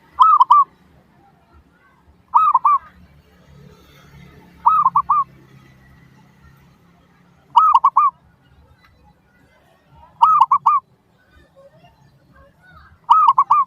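Zebra dove (perkutut) cooing: six short phrases of three or four quick, arched cooing notes, repeated about every two and a half seconds.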